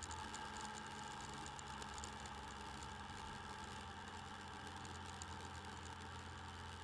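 Motorcycle engine running at a steady speed, heard through the bike-mounted camera's microphone, with faint light ticking over the top.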